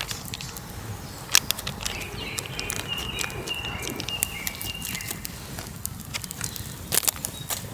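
Outdoor forest ambience: scattered sharp clicks and knocks, the loudest about a second and a half in and near the end, with a bird singing a run of short, level, high notes in the middle.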